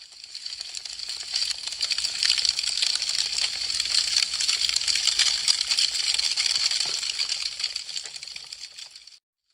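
Wood fire crackling: a dense stream of small snaps and pops from burning branches. It fades in over the first couple of seconds and fades out just before the end.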